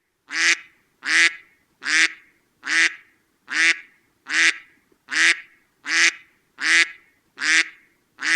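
A duck quacking in a steady, evenly spaced series of about eleven loud quacks, one every three-quarters of a second.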